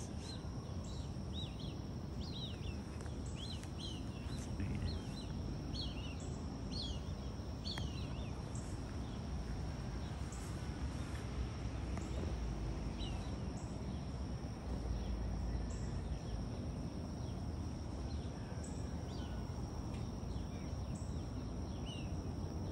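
Birds calling in trees: a string of short, high chirps that slide downward, one or two a second for the first several seconds, then fewer and more spread out. Behind them run a steady high hum and a low outdoor rumble.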